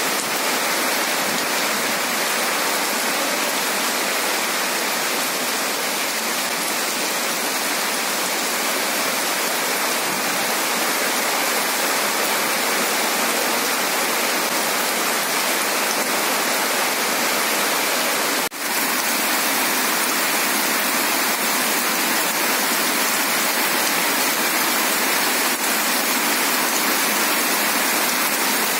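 Heavy rain pouring steadily onto flooded ground, a dense even hiss, with a momentary break about two-thirds of the way through.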